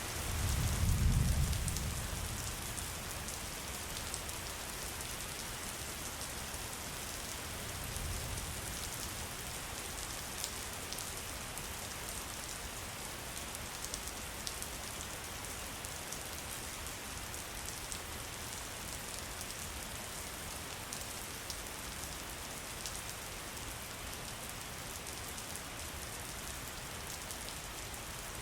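Steady rain falling, an even hiss with scattered drop patter. A deep rumble swells and fades about a second in, and a fainter one comes around eight seconds in.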